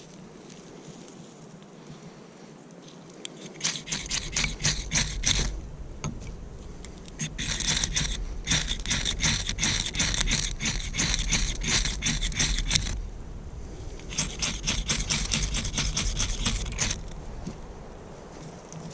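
Rapid, repeated scraping strokes in three bursts of a few seconds each, the middle one the longest.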